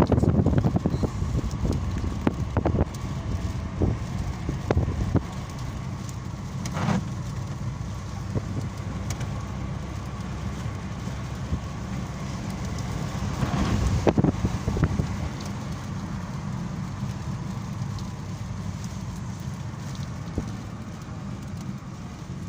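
Rain falling, with scattered sharp drop ticks over a steady low rumble, and a brief louder swell about two-thirds of the way through.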